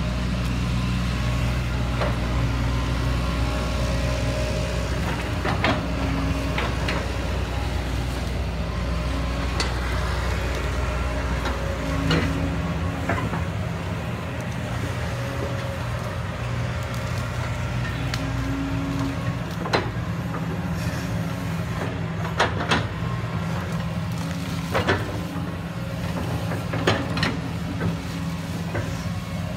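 Heavy diesel engine running steadily, its note shifting lower about twelve seconds in, with scattered sharp knocks several times.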